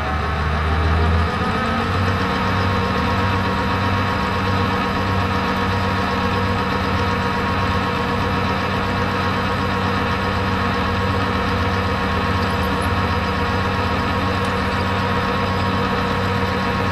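Metal lathe running, its motor and gearing giving a steady whine over a low hum. The pitch rises over the first second or two as it comes up to speed, then holds steady, with a low beat repeating a little under twice a second.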